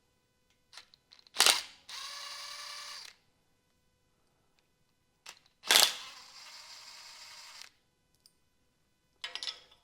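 Two times, a sharp clack followed by a short steady whir of a small motor lasting a second or two and stopping abruptly, with a few light clicks near the end.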